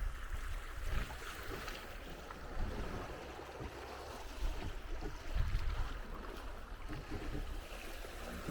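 Water rushing and splashing along the hull of a 27-foot Cape Dory sailboat under way, with uneven low rumbles of wind buffeting the microphone.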